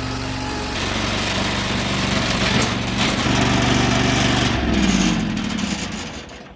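An engine running steadily, growing louder with added noise about a second in, then dying away near the end.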